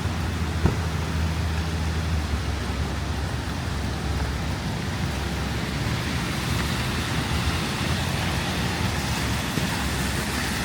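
Steady city street noise in a snowstorm: a low rumble of wind and traffic with an even hiss, and one short knock about half a second in.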